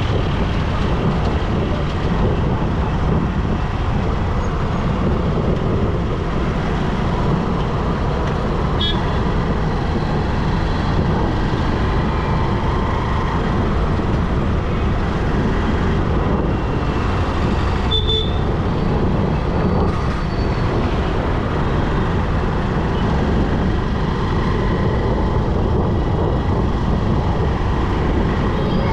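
Steady road and traffic noise from a moving motorbike: a constant low rumble, with a short, sharp high sound about 9 seconds in and another about 18 seconds in.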